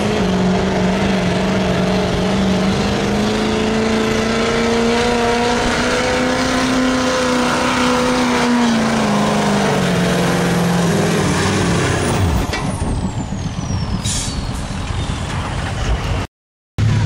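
Duramax diesel pickup at full throttle pulling a weight-transfer sled, the engine holding a steady note with turbo hiss. Its pitch sags as the pull slows, then the throttle lifts about twelve seconds in and the turbo's whistle winds down over a few seconds, with a short hiss about two seconds later. The sound cuts out briefly near the end.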